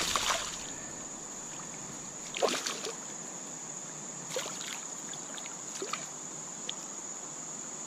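Water sloshing and splashing around a kayak. Four separate splashes or knocks come roughly every one and a half to two seconds, over a steady high-pitched whine.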